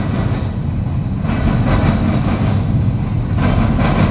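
Freight train cars rolling past at close range: covered hoppers and tank cars making a steady rumble of steel wheels on the rails.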